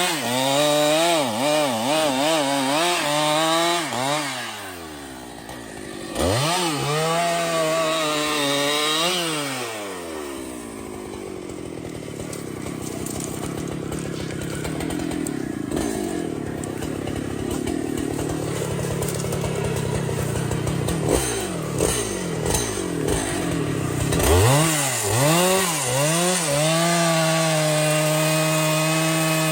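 Chainsaw revving up and down in bursts, then running lower and rougher under load from about ten seconds in as it cuts into a tree trunk. Near the end it revs again and holds a steady high speed.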